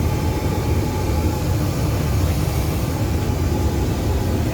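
Boeing 737 MAX 8 cabin noise in flight: a steady low rumble of airflow and engines, with a faint steady hum above it.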